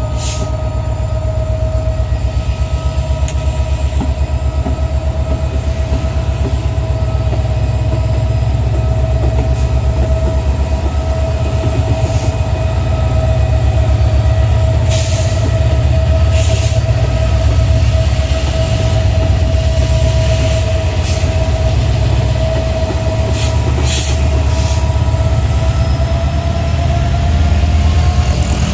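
Loaded Babaranjang coal train rolling past: a deep steady rumble of locomotive and wagons, with a steady high-pitched wheel squeal on the rails that rises slightly near the end, and short sharp clicks now and then.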